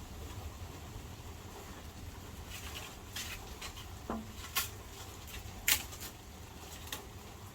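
Rain dripping and pattering: a steady low rumble under scattered sharp taps of drops, the loudest a little before six seconds in.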